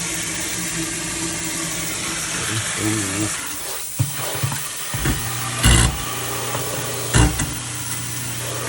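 InSinkErator Power 3/4 HP garbage disposal running with water flowing, a steady motor hum under a hiss, broken by a few knocks and thumps from about four seconds in.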